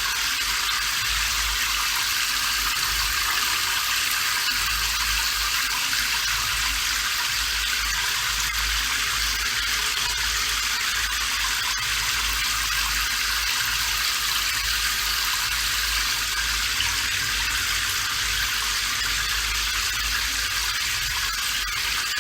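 Steady rain, an even hiss of falling water that holds constant throughout.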